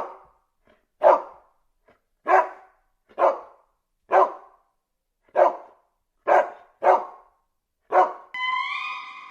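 A dog barking: nine single, sharp barks at about one a second. Near the end a steady high-pitched tone begins.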